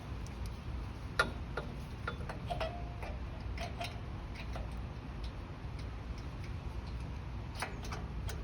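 Scattered light metallic clicks and taps, with one brief ring, from small metal parts and hand tools being handled while a generator carburetor is refitted. The sharpest click comes about a second in, and a few more follow near the end, over a steady low hum.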